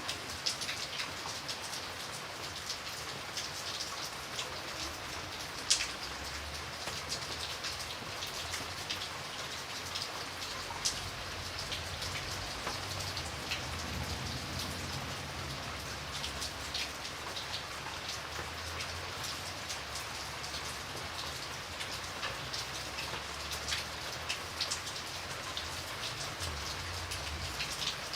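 Steady rain with many separate drops pattering on a hard surface, a few louder single drops standing out, over a faint low rumble.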